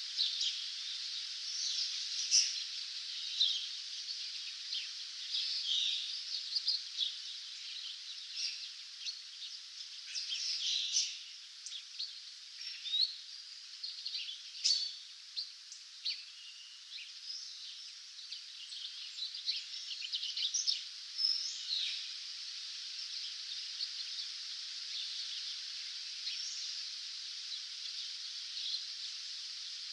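Dawn chorus of several songbirds, short chirps and trills over a steady high hiss, busy for most of the stretch and thinning out near the end.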